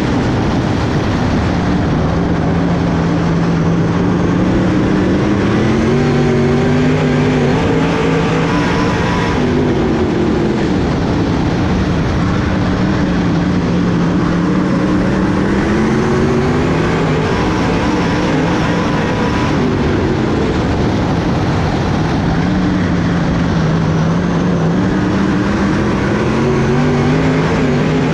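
A race car engine running hard on a dirt oval, its pitch rising as it accelerates and falling as it backs off, over and over in a regular lap rhythm.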